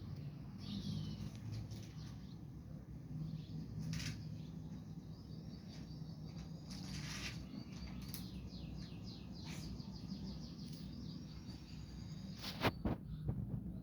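A bird chirping in a rapid run of short high notes over a steady low hum, with a couple of sharp knocks near the end.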